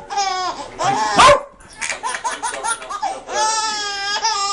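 A dog vocalizing on the command to speak, in drawn-out, wavering, pitched yowls. There is a short one at the start, choppier sounds in between, and a longer yowl about three seconds in.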